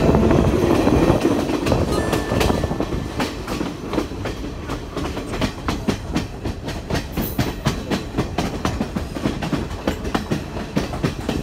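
Passenger train running along the track, heard from on board: a steady rumble with wheels clacking over the rail joints, louder for the first few seconds and then easing off.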